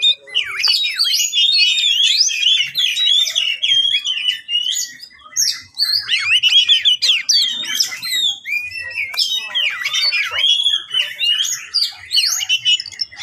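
Oriental magpie-robin (kacer) singing a loud, nearly unbroken song of quick varied whistles, slurs and trills, with a couple of brief pauses. This is the agitated 'ngeplay' song of a bird in fighting mood.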